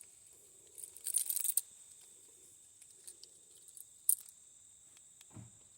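Crunching and crackling of footsteps through dry leaf litter and twigs, loudest about a second in, with a sharp snap about four seconds in. A steady high insect drone runs underneath.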